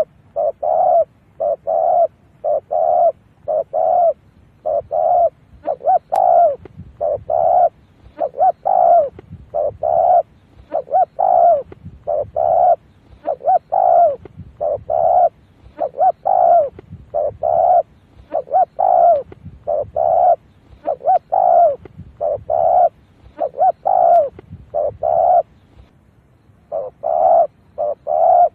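Spotted dove cooing over and over, a near-continuous run of short low coos at about two a second, with a brief pause near the end. This is a decoy call used to lure wild doves.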